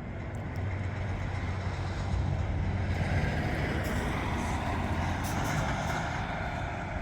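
Strong gusty wind buffeting the microphone: a constant low rumble with a broad rushing noise that swells through the middle.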